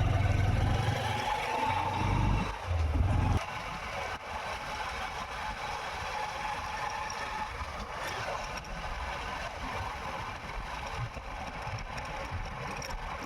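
Motorcycle on the move, its engine and road noise heard from the bike. A heavy low rumble fills the first three seconds or so and drops away suddenly, leaving a steadier, quieter running sound.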